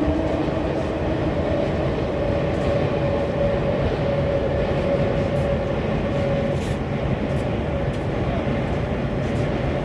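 A train crossing the steel truss rail bridge: a steady, loud rumble of wheels on the track with a long, even metallic tone held over it.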